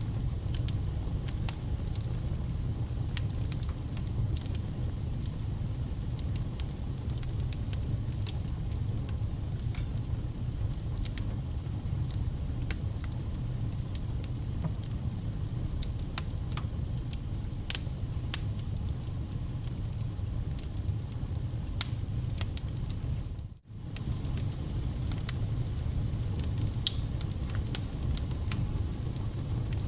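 Wood fire burning: a steady low rumble of the flames with frequent irregular crackles and sharp pops from the burning logs. The sound drops out for a moment a little past two-thirds of the way through.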